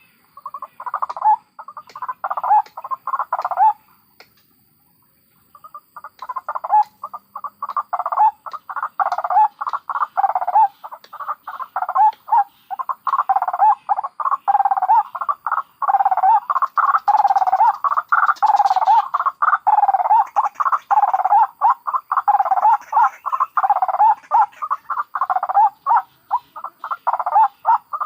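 White-breasted waterhen calling in fast, repeated croaking phrases, with a short pause a few seconds in. This is a decoy call used to lure the birds.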